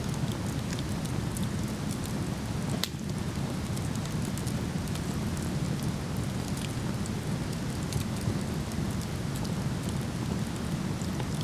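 Steady rushing of a waterfall, with the small pops and crackles of a burning wood fire scattered over it and one sharper pop about three seconds in.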